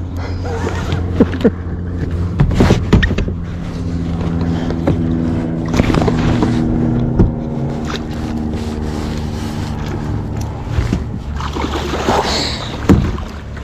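A motor hums steadily at a low pitch, clearest through the middle, with scattered knocks and clatter.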